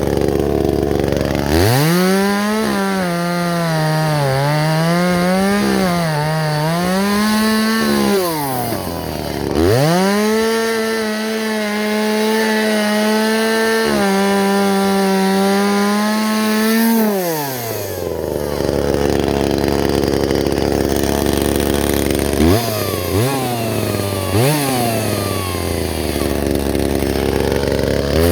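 Two-stroke chainsaw idling, then revved to full throttle and cutting wood, its pitch sagging and recovering under load. It drops back to idle twice, gives three quick throttle blips, and revs up again at the very end.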